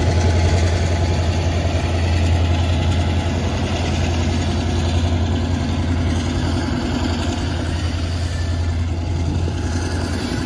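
Amtrak passenger train's diesel locomotive engine running with a steady low hum, weakening slightly near the end.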